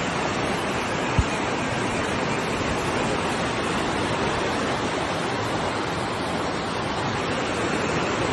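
Steady rushing of water, the even wash of heavy flooding or downpour, with one brief low thump about a second in.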